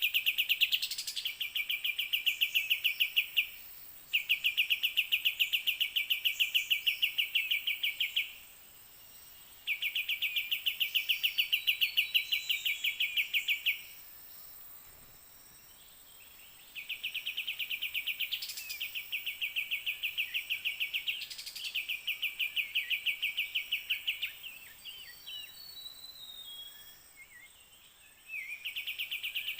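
A loud, rapid, evenly pulsed trill repeats in bursts of about four seconds with short pauses between them. Scattered bird chirps and short whistled calls come in between the bursts, more of them near the end.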